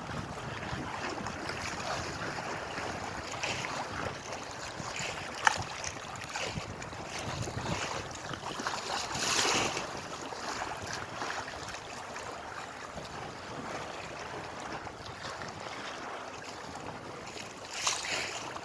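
Lake water lapping and splashing in small waves, with wind on the microphone. A sharp click comes about five seconds in, and louder surges of water noise come around nine seconds and just before the end.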